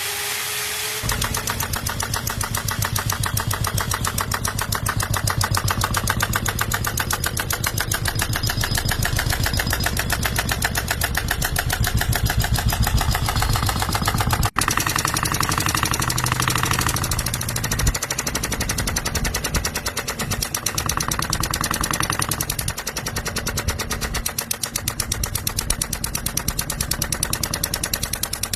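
Miniature model steam engine running fast, a rapid, even stream of exhaust puffs, broken off for a moment about halfway through.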